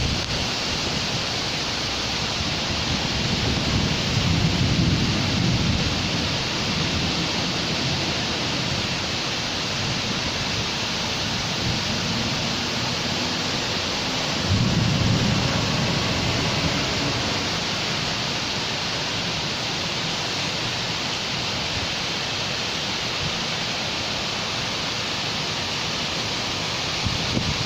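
Steady rain hissing, with two low rumbles rising under it, one about four seconds in and a sharper one starting about halfway through and fading over a few seconds.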